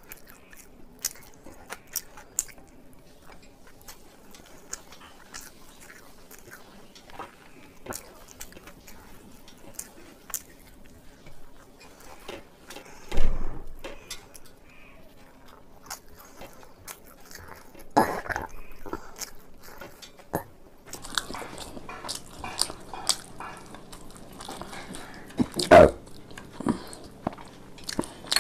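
Close-miked chewing and biting of food, with many small wet mouth clicks and smacks. There are two louder thumps, about halfway through and near the end.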